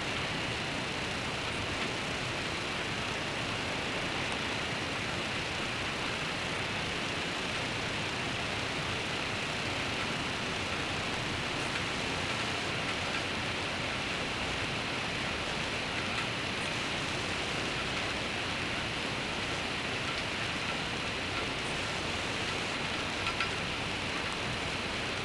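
Steady rain falling, an even hiss with no break or swell, with a few faint drip ticks.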